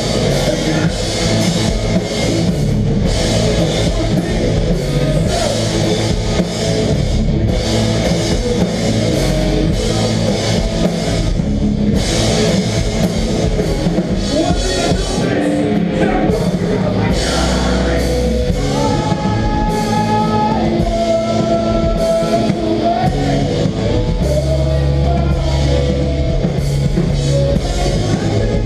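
Melodic hardcore band playing live: distorted electric guitars, bass and drum kit, with cymbals struck throughout.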